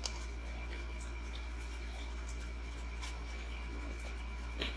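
Faint eating sounds: a few soft mouth clicks from chewing, with a sharper smack near the end, over a steady low electrical hum.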